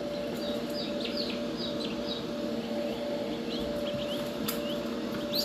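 Newly hatched mallard ducklings and peachicks peeping: a steady stream of short, high, falling peeps, several a second. A steady low hum runs underneath.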